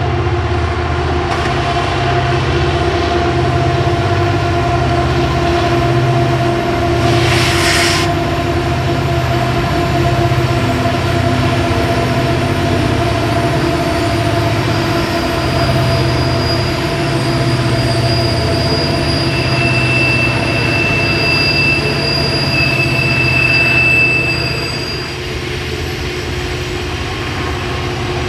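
Diesel freight train passing at close range: a steady low diesel engine drone under the rolling of the cars. A short hiss comes about seven seconds in, and a high-pitched wheel squeal rises over it from about nineteen to twenty-four seconds in.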